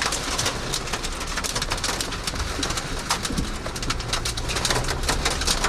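Rain and hail striking the car's body and glass in a dense, continuous stream of small ticks and taps, over the low hum of the car's engine.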